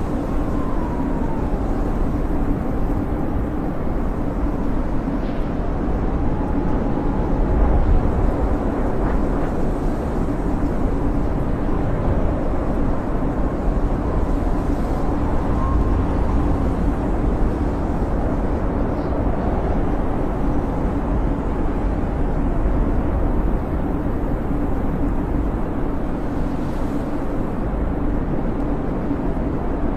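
Snowstorm wind: a steady deep rush with a faint whistle that wavers up and down in pitch.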